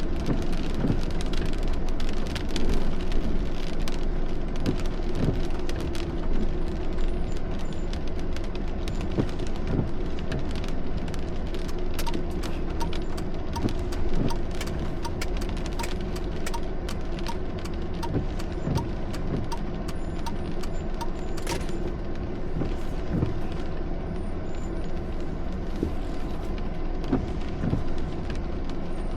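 Rain falling during a thunderstorm, with many sharp drop hits over a steady low vehicle or road hum. Through the middle there is a faint, regular tick, about one every 0.7 seconds.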